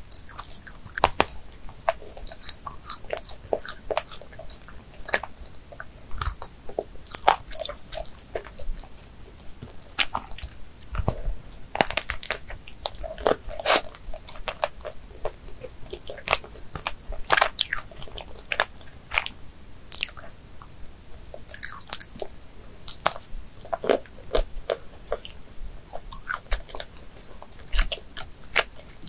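Close-miked chewing of a strawberry-glazed Krispy Kreme doughnut, with many sharp wet mouth clicks and smacks.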